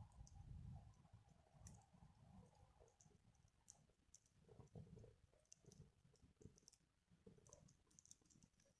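Faint, sparse crackles and ticks of a small wood fire burning in a Picogrill 398 fire stand, otherwise near silence.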